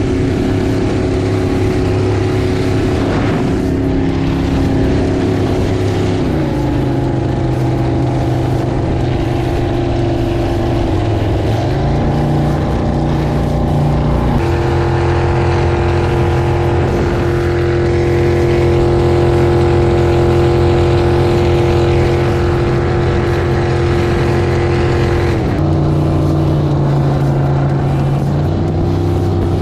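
Jet boat's V8 engine running under way. It holds a steady pitch with a few changes in speed: it drops about six seconds in, climbs again around twelve and fourteen seconds, then dips and picks back up near the end.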